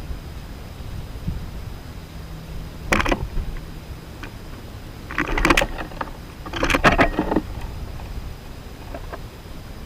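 Outdoor ambience at a backyard bird feeder: a steady low rumble, with a short sharp burst about three seconds in and two longer rattling, rustling bursts about five and a half and seven seconds in.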